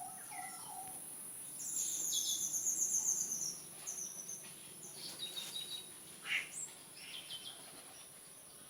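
Birds chirping and calling in quick repeated notes and trills, loudest about two seconds in, over a steady high-pitched whine.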